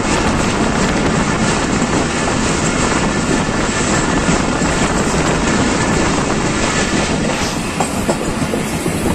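Pakistan Railways passenger train running at speed, heard from an open coach window: a steady rumble and rush of the wheels on the rails. A few sharper clicks come near the end.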